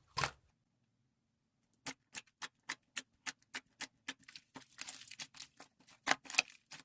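A series of short, sharp clicks, a few a second, starting about two seconds in and coming faster near the end.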